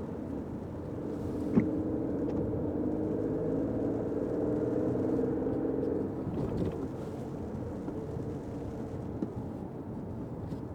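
Fiat 500X driving, heard from inside the cabin: a steady engine hum with road and tyre noise, and one sharp knock about a second and a half in.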